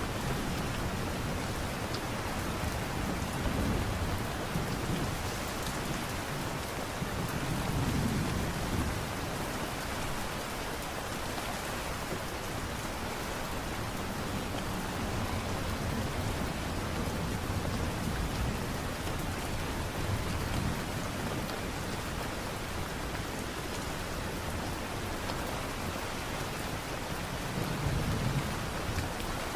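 Steady light rain falling, with a few low rumbles swelling up, the strongest about eight seconds in and near the end.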